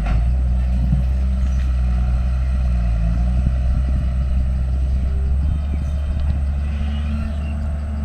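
Diesel engine of heavy earthmoving equipment running steadily under load, a deep even drone with a few faint clanks.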